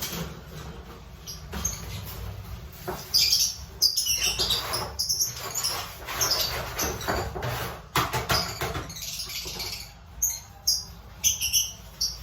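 Lovebirds giving short, high-pitched chirps and squeaks, scattered and irregular, over bursts of rustling.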